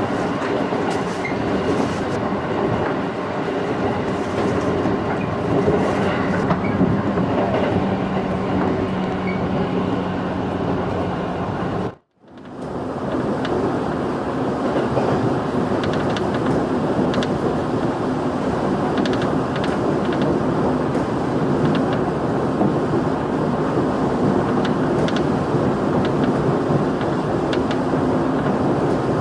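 A JR 211 series electric multiple unit running at speed, heard from inside the passenger car: a steady rumble of wheels on rail with a low motor and gear hum and scattered wheel clicks over the rail joints. The sound cuts out for a moment about twelve seconds in.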